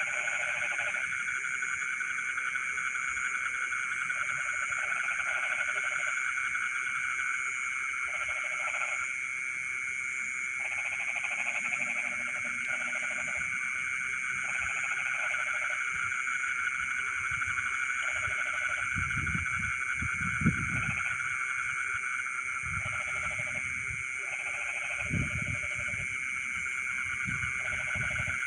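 Frogs calling in a rice paddy at night: a dense, steady chorus of high trilling, over which lower frog calls come in short bouts every second or two. A few low rumbles and a brief tap about two-thirds of the way through.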